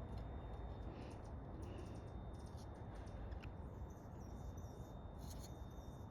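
Faint scattered clicks and rustles of fingers working a thread into a knot close to the microphone, over a steady low rumble.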